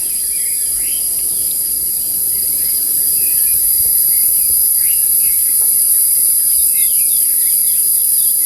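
Loud, steady insect chorus: a continuous high-pitched shrill trill with no breaks. Birds chirp over it again and again in short, quick calls.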